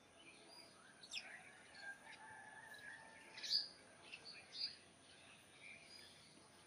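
Wild birds chirping in the trees: short, scattered high calls, the loudest about three and a half seconds in, over faint outdoor background.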